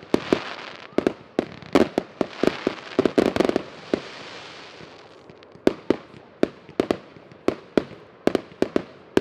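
Fireworks going off: a rapid string of sharp bangs over a crackling hiss for the first four seconds or so, then thinning to single bangs about every half second.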